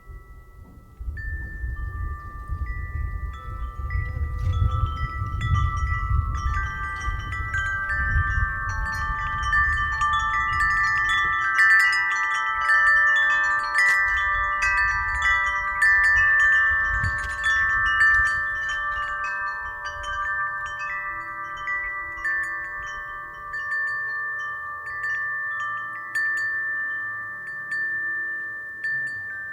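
Wind chime ringing as the wind swings it, many overlapping sustained tones at several pitches struck again and again, busiest in the middle and thinning toward the end. A low rush of wind runs under the first half.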